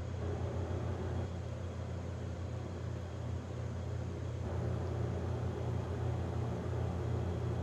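Steady low rumble with a constant hum, without a break.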